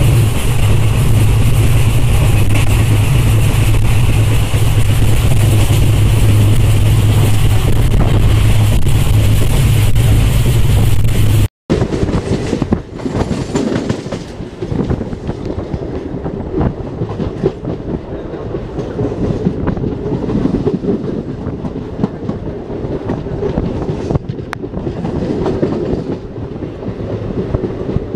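A passenger train running on the rails, heard from on board. For about the first eleven seconds there is a loud, steady rush with a deep hum. It breaks off abruptly, and a quieter clickety-clack of the carriage wheels over rail joints follows.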